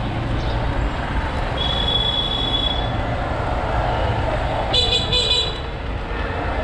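Vehicle horns honking over steady road-traffic rumble: a longer high tone about two seconds in, then a louder double honk about five seconds in.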